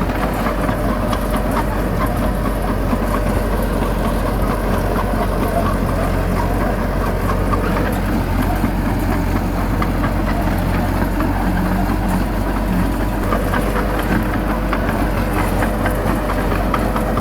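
Diesel engine of heavy earthmoving machinery running steadily: a constant low drone with faint scattered clicks and clanks.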